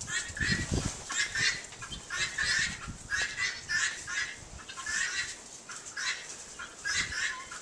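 A flock of hens clucking and squawking over one another: a continuous ruckus of short, repeated calls.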